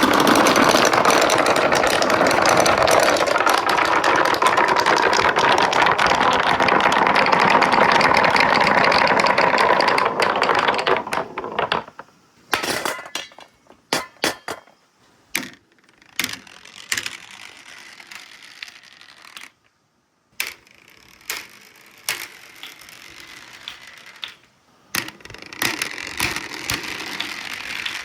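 Many marbles rolling and clattering together down a marble run track in a dense, steady rattle. About eleven seconds in it thins out to scattered single clicks and knocks as the last marbles come through, with a short stretch of rolling again near the end.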